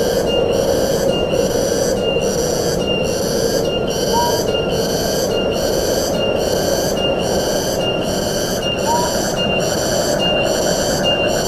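Forest ambience: a pulsing insect chorus repeating about twice a second over a steady rush of wind. A short, single rising call sounds twice, a few seconds apart.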